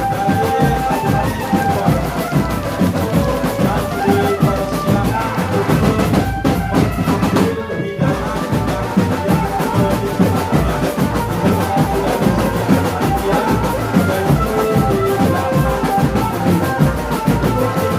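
A marching drum band playing: bass and snare drums beating a dense, steady march with rolls, under a sustained melody from the band's melodic instruments. The sound briefly thins for a moment about halfway through, then the playing carries on.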